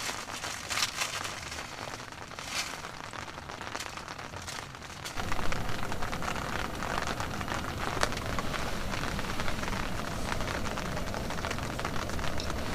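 Heavy rain falling, with scattered sharp patters at first. About five seconds in it turns abruptly denser and louder.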